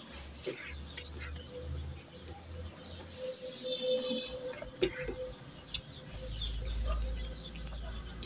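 Close-miked eating by hand: wet chewing and lip-smacking clicks, with fingers squishing curry-soaked rice on a plate.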